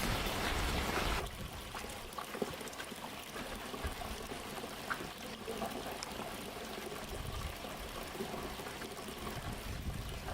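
Water noise, like rain, that drops off suddenly about a second in, then a quieter steady trickle of water with scattered small drips.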